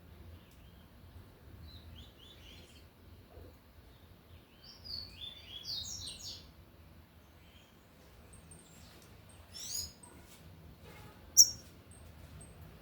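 Double-collared seedeater (coleiro) singing its tui-tui song in short phrases of quick, high chirping notes, three phrases in all, with one sharp, much louder note near the end.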